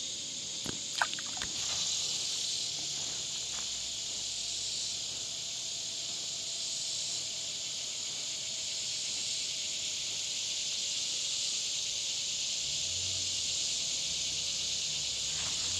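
Steady, high-pitched buzzing of a chorus of summer insects, with a few light clicks about a second in.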